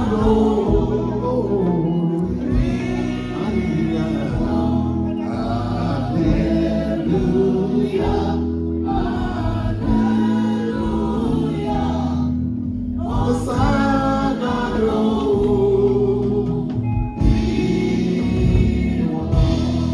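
Gospel music: sung vocal phrases over a steady instrumental accompaniment, the singing pausing briefly twice.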